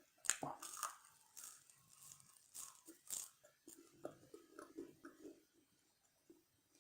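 A person biting into and chewing fast-food French fries: a few crisp bites in the first three seconds, then softer chewing for a couple of seconds.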